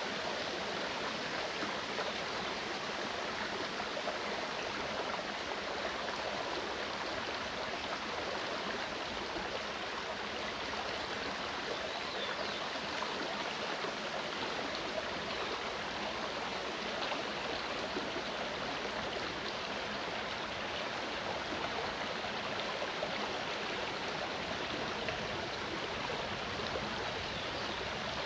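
Mountain stream running over rocks, a steady even rush and babble of water.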